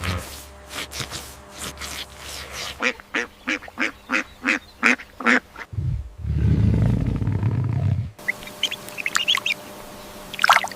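Poultry calling: a run of about a dozen quick, evenly spaced calls, then a low rumbling noise for about two seconds, then high peeping chirps near the end.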